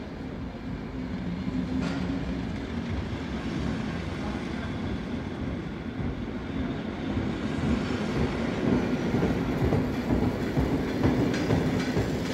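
Märklin H0 model train running on metal M-track: a steady rumble with a motor hum and clicking of the wheels over the rails. It grows louder and busier in the second half as the train comes close.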